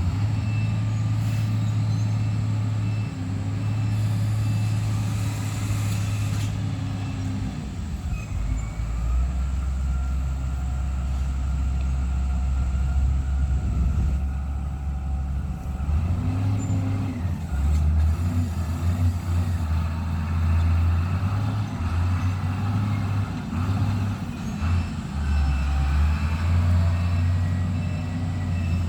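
Heavy diesel engine of a truck or motor grader running, its low drone dropping and rising in pitch several times as the revs and load change.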